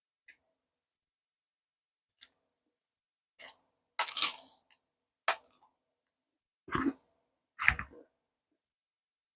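Close-miked eating sounds: a handful of short, separate bites and chews with silence between them. The loudest comes about four seconds in, and two low thumps follow near the end.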